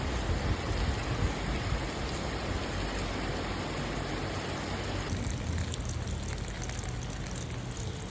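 Rain falling: a steady, even hiss of drizzle. About five seconds in the sound changes to a thinner patter with separate drop ticks.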